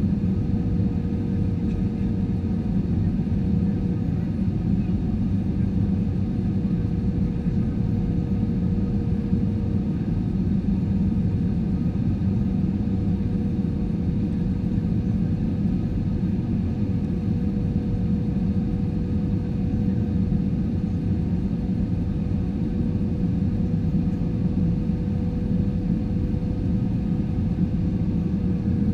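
Steady cabin drone of an Airbus A320-214 with CFM56-5B engines: a low rumble with a steady engine whine that sags slightly in pitch near the end.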